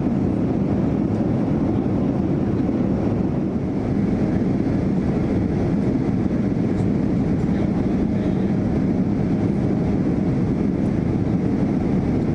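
Steady cabin noise of a Boeing 787-9 in cruise: an even, low rush of airflow and engine noise.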